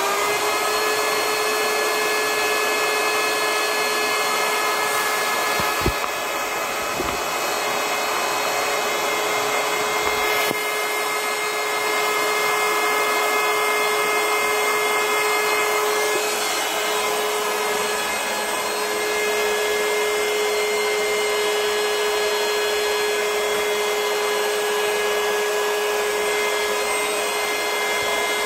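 Battery-powered portable electric air pump running, its small motor and fan giving a steady, even hum at a constant pitch. There is a single knock about six seconds in.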